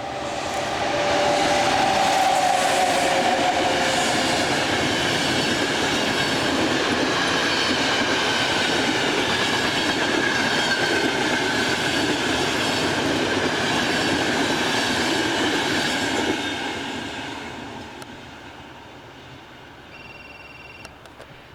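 A train passing close by, its wheels clattering over the rail joints. It stays loud for about fifteen seconds, then fades away.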